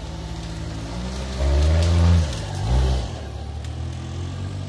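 Off-road trial vehicle's engine running low, then revved hard twice. The first burst lasts about a second, rising and falling in pitch; a shorter one follows before it drops back to a steady low run.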